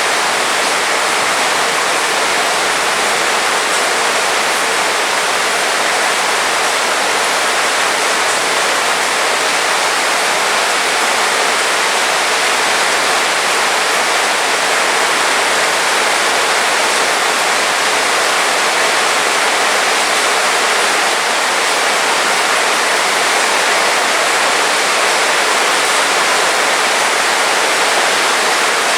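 Heavy rain falling, a dense, steady hiss without breaks.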